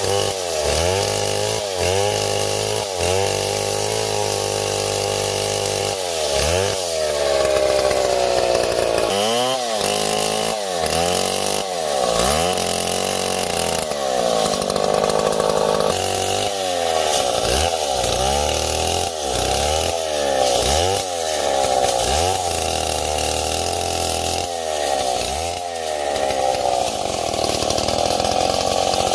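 Two-stroke chainsaw running at high revs, its engine pitch repeatedly dropping and climbing back as the throttle is worked and the chain is loaded in the cut.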